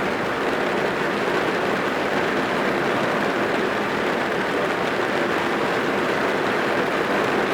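Steady heavy rain drumming on a car's roof and windows, heard from inside the car as a dense, even patter.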